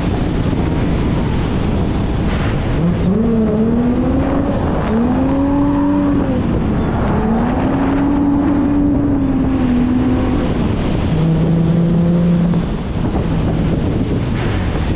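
Holden VY Commodore Calais engine revving up and down repeatedly during drifting, briefly holding steady revs near the end, under a constant loud rushing noise of tyres and air.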